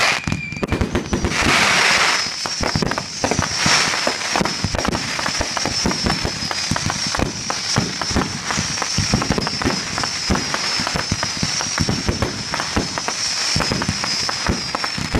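Fireworks display: aerial shells bursting in a dense, continuous run of crackling and bangs, with a brief hiss about one and a half seconds in. A thin high whistle runs through most of it.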